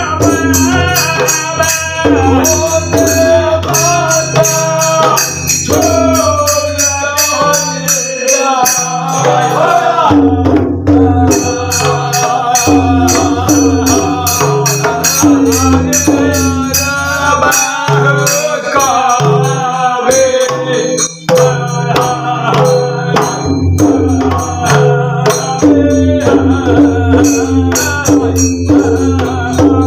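Devotional bhajan singing accompanied by a hand drum keeping the theka rhythm and jhal hand cymbals clashing on a steady beat.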